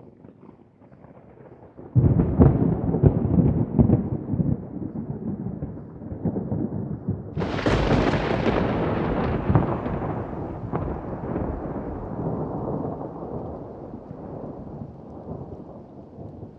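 Thunder: a faint rumble, then a sudden loud crackling clap about two seconds in, a second sharper crack about seven seconds in, and a long rumble slowly dying away.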